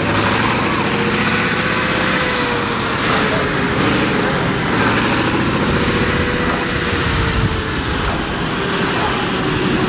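Pulling tractor's engine running hard and steadily under load, its pitch wavering slowly up and down.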